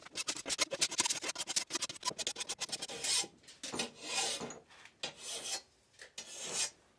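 Hand file scraping along the steel blade of an antique hay saw to sharpen it: about three seconds of quick short strokes, then four slower, longer strokes.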